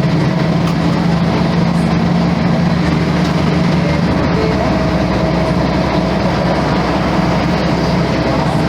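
Volvo B10M bus's inline-six diesel engine running steadily, a constant low drone with no rise or fall in pitch.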